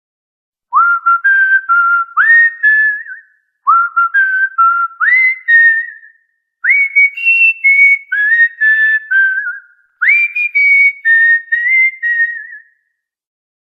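Cockatiel whistling a melody in four phrases. Each phrase opens with a quick upward swoop into a run of short, clear notes, with brief pauses between phrases.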